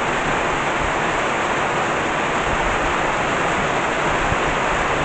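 Steady moderate rain falling, with rainwater runoff running over the ground: an even rushing hiss.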